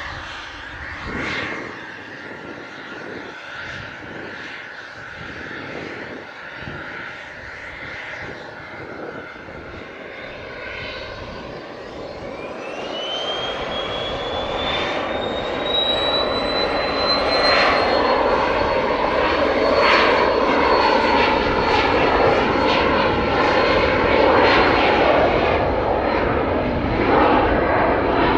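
Jet airliner engines growing steadily louder, with a high whine that rises in pitch about halfway through and then holds steady under a loud rushing roar.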